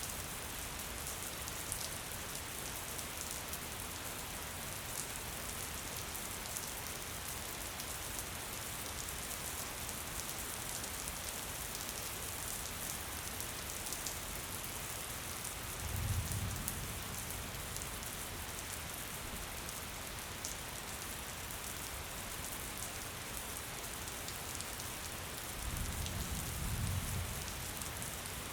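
Gentle steady rain: a dense patter of drops with fine ticks. Twice, just past the middle and again near the end, a low rumble swells for a second or two.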